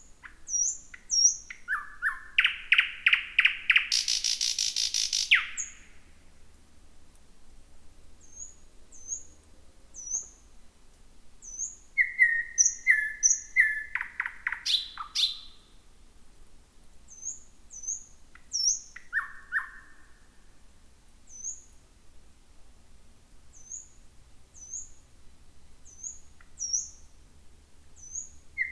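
Thrush nightingale singing at night: three loud phrases of fast repeated notes, the first two ending in a harsh rattling buzz, with short high chirps scattered between the phrases.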